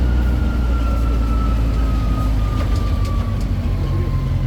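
City tour train running along the street: a steady low engine drone with a thin high whine that slowly falls in pitch.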